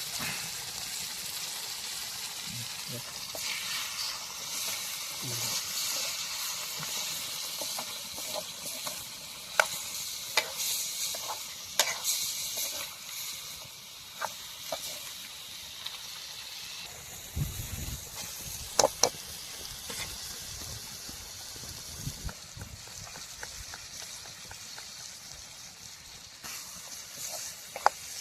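Pork curry sizzling and frying in a pan, a steady hiss, while it is stirred, with sharp knocks and scrapes of the stirring utensil against the pan several times and a dull thud a little past the middle.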